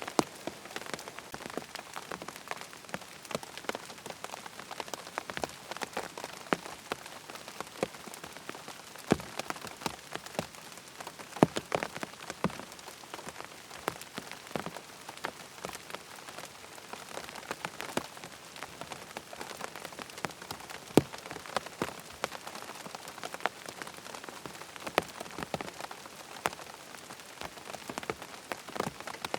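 Rain falling on a tent: a steady hiss of rain with many separate, irregular drop hits on the fabric.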